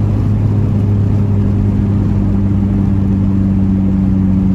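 Dodge SRT-4's turbocharged four-cylinder engine running at steady revs while the car drives along, heard from inside the cabin as an even drone.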